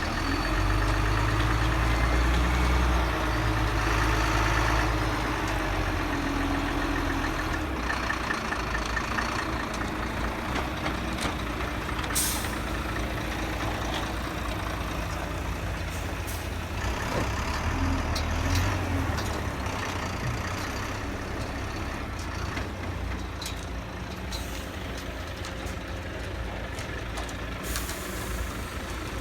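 Heavy truck's diesel engine running steadily, louder for the first few seconds, with short sharp air-brake hisses about twelve seconds in and near the end.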